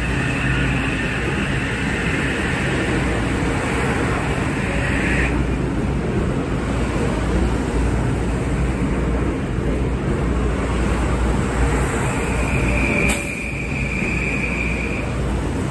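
Kawasaki M8 electric multiple-unit train passing at close range, its wheels rumbling steadily on the rails. A high steady tone rides over the rumble for the first five seconds and again near the end, and there is one sharp clack shortly before the end.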